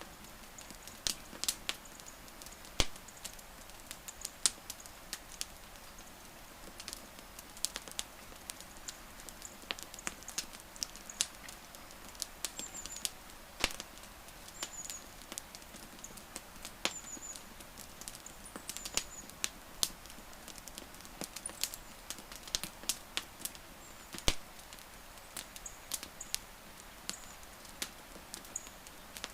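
Wood fire crackling: irregular sharp pops and snaps over a soft steady hiss, with faint high chirps now and then.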